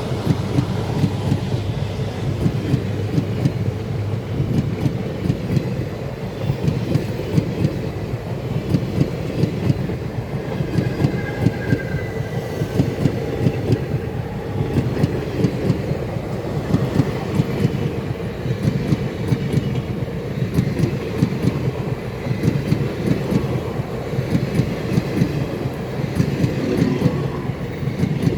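Express train running on the track, its wheels clattering steadily over the rail joints.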